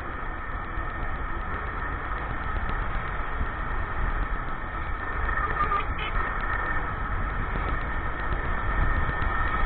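Motorcycle running steadily on the move, with a low rumble under it.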